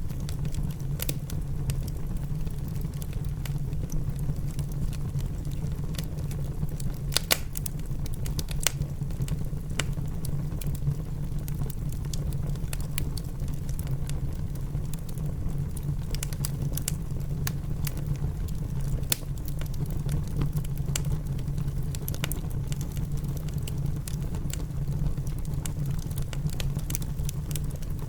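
Wood fire crackling in a fireplace, with frequent sharp pops scattered throughout and a louder one about seven seconds in, over steady rain patter and a low rumble.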